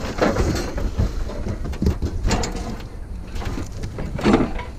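Knocks and scrapes of a heavy metal grill being manhandled and loaded, a few sudden clanks over a steady low rumble.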